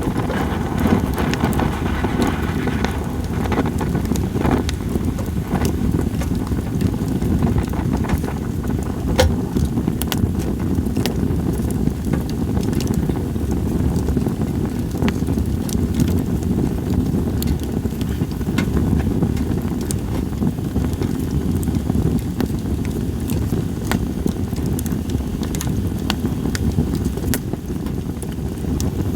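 Split sawtooth oak (kunugi) firewood burning in an open fire, crackling with scattered sharp pops over a steady low rumble of flame and wind; one louder pop about nine seconds in.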